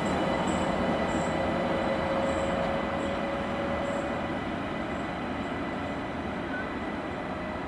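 Train running along the station tracks and fading away, a steady rumble and rail noise that grows quieter. A thin wheel squeal fades out about halfway through, and a light ticking about twice a second dies away with it.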